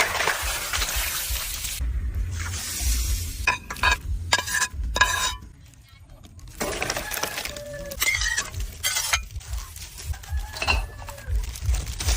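Cooking sounds: clinking and clattering of utensils and dishes mixed with stirring and sizzling noise, with a short lull about halfway through.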